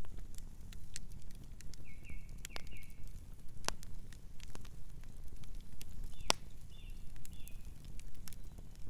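Wood fire crackling with irregular sharp pops over a low steady rumble. A bird gives short chirps in two brief runs, one about two seconds in and a higher one about six seconds in.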